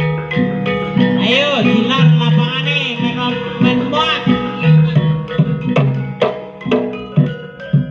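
Jaranan gamelan music: ringing struck metal percussion over regular low drum strokes. A wavering high melody rises over it about one to two seconds in and again around four seconds.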